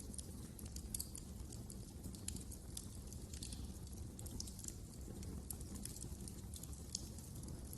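Wood fire crackling: irregular sharp pops and snaps, several a second, over a low, steady rumble of the flames.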